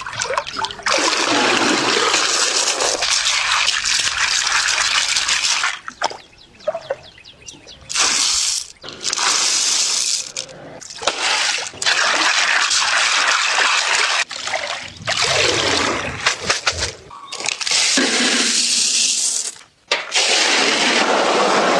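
Water splashing and sloshing in loud stretches a few seconds long, each starting and stopping abruptly.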